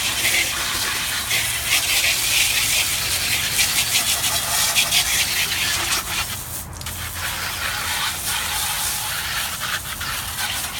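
A jet of water spraying steadily against a refrigerator as it is washed down, briefly interrupted about six and a half seconds in.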